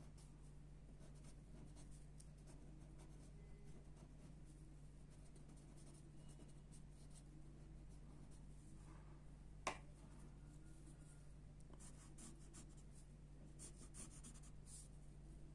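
Faint pencil scratching on paper in short strokes, with one sharp tap about ten seconds in, over a steady low hum.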